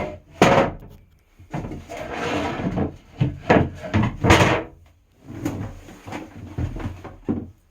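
Loose wooden boards being handled and set in place in a wooden boat: a string of sharp wooden knocks, about half a dozen, with scraping and rubbing of wood on wood between them.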